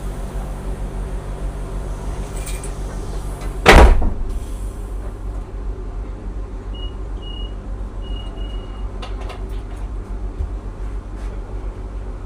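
Passenger train carriage: the train's steady low hum, a loud sudden burst about four seconds in, then a run of short high beeps a few seconds later, typical of a train's door warning tones.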